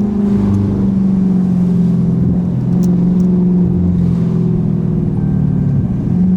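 Dodge Scat Pack's 392 HEMI V8 exhaust droning at a nearly steady pitch, with small rises and dips, as the car is driven.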